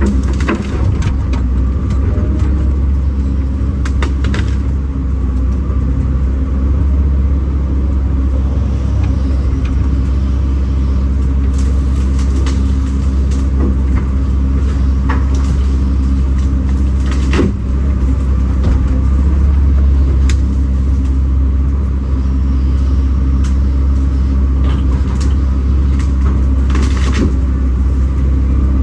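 Kobelco SK210 excavator's diesel engine running steadily under working load, with a few sharp knocks or snaps scattered through it, about a second in and again around 4, 12, 17 and 27 seconds.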